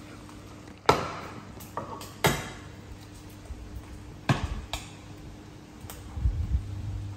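Stainless steel pot, lid and cooking utensils clanking as they are set down and handled: three sharp metallic knocks over about three and a half seconds, the first ringing briefly, with lighter clinks between and after.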